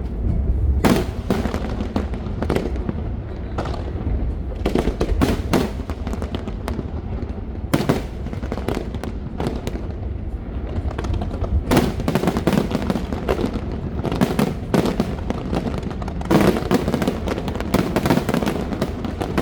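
Aerial fireworks display: repeated bangs and crackling bursts coming in irregular clusters, over a steady low rumble.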